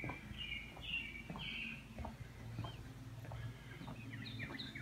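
Songbirds chirping: a few phrases in the first second and a half, then a quick run of repeated chirps near the end. Under them, soft footsteps at a walking pace on the bridge's plank deck and the pavement.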